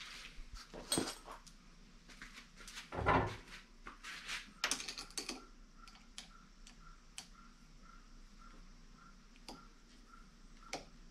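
Scattered clicks and knocks of hard parts being handled as a clamp mount is fitted around a motorcycle handlebar, busiest in the first five seconds, with a louder knock about three seconds in. After that only a few isolated ticks.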